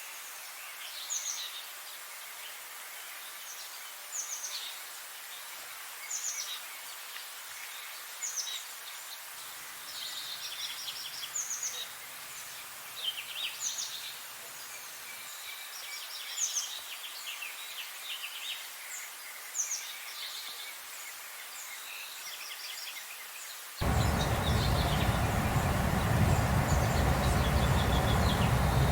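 Songbirds singing over a steady hiss: one bird repeats a short call that sweeps down in pitch, about every two seconds, among other chirps and trills. About 24 seconds in, a much louder steady noise with a deep rumble starts suddenly and covers the birds.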